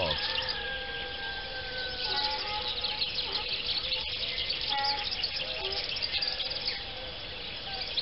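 Several wild birds chirping and singing at once, a busy twittering chatter, with one long, slightly falling whistled note in the first couple of seconds and a few shorter whistles later.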